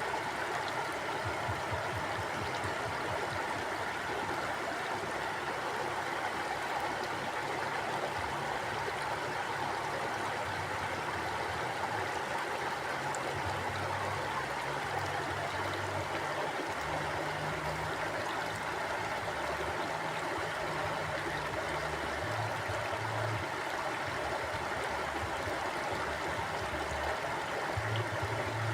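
Forest mountain stream flowing steadily: an even rush of water, with a low rumble underneath that swells and fades.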